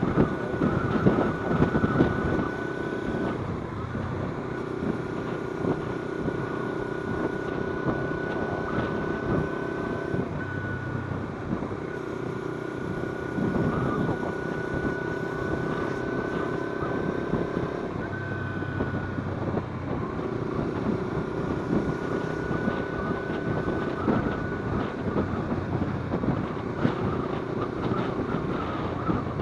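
Kawasaki Z250 parallel-twin engine running steadily while the bike is ridden, with wind rushing over the microphone. The engine note drops out and returns several times, about every few seconds, as the throttle eases or gears change.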